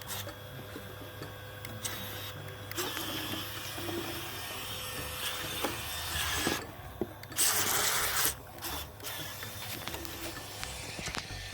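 Adventure Force mini RC boat's small electric propeller motors whirring, the sound swelling and easing, with a louder spell about two-thirds of the way through.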